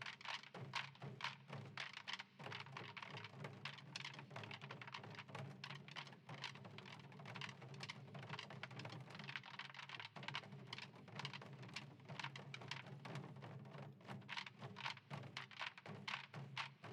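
Fast, dense Korean percussion drumming from a samul nanta troupe, with rapid strikes and no pause, heard faint and distant over a steady low hum.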